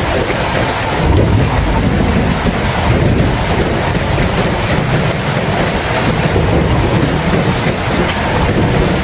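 Steady heavy rain with a low rumble of thunder underneath, swelling slightly about a second in.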